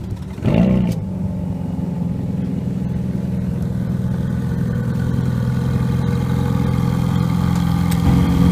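Supercar engine starting: a quick flare of revs about half a second in, then settling into a steady idle.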